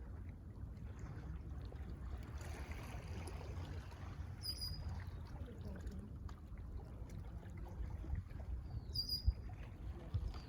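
Waves washing on a lakeshore, with wind rumbling on the microphone. A bird gives two short high calls, about four and a half seconds apart.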